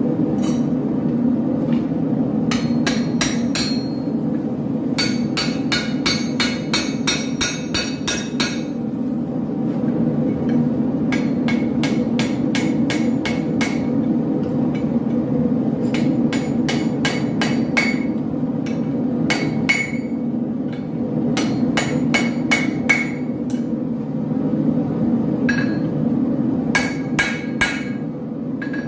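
Hammer blows on a sword blade on an anvil, struck in runs of quick blows, several a second, with short pauses between runs; each blow rings with a metallic tone. A steady low roar continues underneath.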